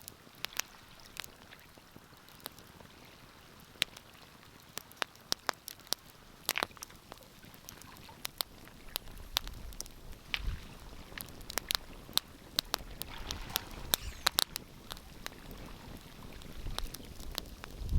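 Wood fire crackling in a fireplace: irregular sharp pops and snaps, denser in the second half, with a low rumble that builds from about halfway through.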